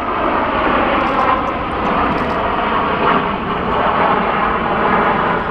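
Jet noise from the Red Arrows' BAE Hawk T1 jets flying past in formation: a loud, steady rushing sound.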